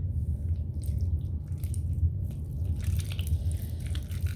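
Slime being mixed and worked by hand with activator, giving irregular wet squishing and sticky clicks, over a steady low hum.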